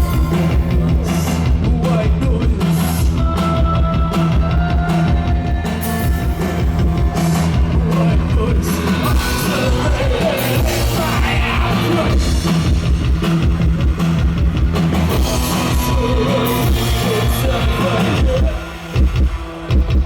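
Live post-punk rock band playing loud on stage: drum kit, bass and guitars with a singer's voice, through a concert PA. Near the end the full band drops away, leaving a pulsing low throb.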